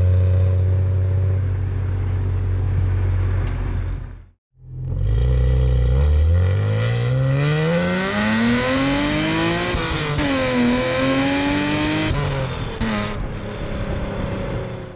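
BMW E36 M3's S50B32 3.2-litre straight-six engine and exhaust under way: a steady drone for about four seconds, then after a brief cut the engine pulls hard with a long rising pitch, a quick drop at a gear change about ten seconds in, a further climb, and a fall in pitch as the throttle comes off near the end.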